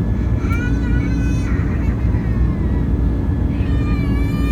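Steady low roar of an Airbus A380's Rolls-Royce Trent 900 engines and airflow heard inside the cabin during the climb-out. A high-pitched, wavering cry rises over it twice, about half a second in and again near the end.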